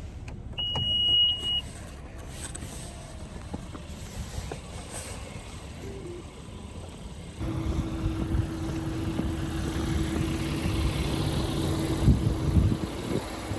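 A single high electronic beep lasting about a second, then, about seven seconds in, a car's running noise comes in and carries on steadily.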